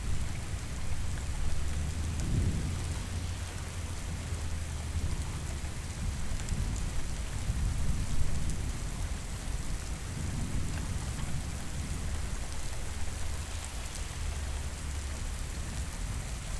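Steady rain falling, with low rolling thunder rumbling underneath that swells about two seconds in and again past the middle.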